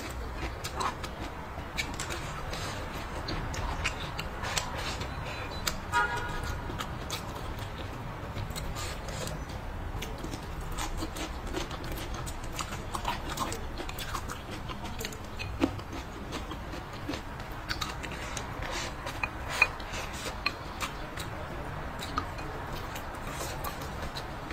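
Close-miked chewing and wet mouth sounds of a person eating braised pork ribs and peppers, with many small clicks and smacks and a few sharper clicks.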